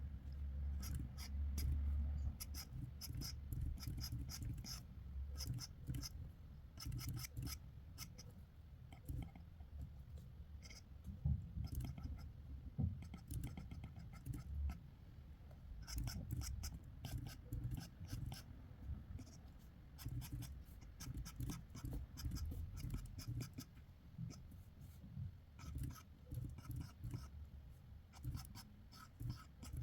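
Sketching on paper: many quick, irregular scratching strokes of a drawing tool, with a low rumble underneath.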